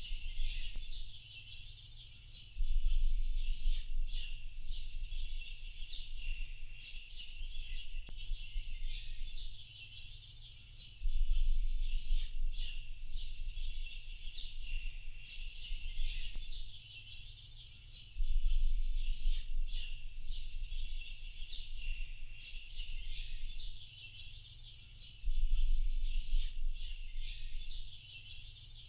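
A chorus of small birds chirping and twittering without pause, with a deep low rumble that swells in and drops away about every seven seconds.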